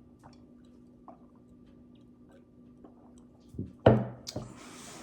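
Faint chewing and wet mouth sounds of a person eating, then near the end a loud thump and a breathy rush of noise, as after a drink of water.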